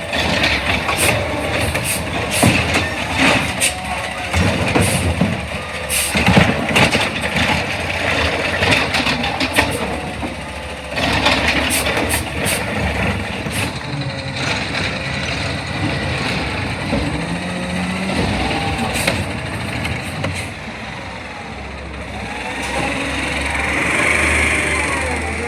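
Garbage truck at work: its diesel engine running under a string of sharp metal clanks and bangs through the first half, then a hiss of air brakes near the end.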